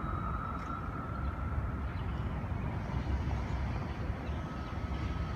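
Steady low rumble of city traffic, with a faint steady tone above it.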